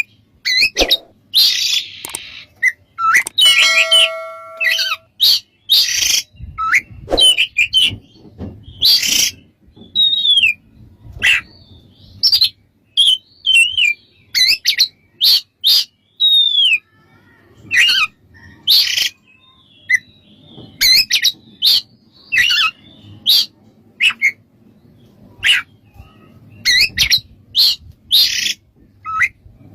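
Oriental magpie-robin singing a loud, varied song of quick whistled slurs and harsh scratchy notes in short phrases, with one held steady note about four seconds in.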